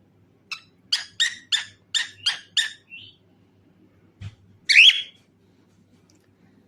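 Cockatiel calling: a run of six quick, harsh chirps at about three a second, then, after a short pause, one louder squawk that sweeps upward.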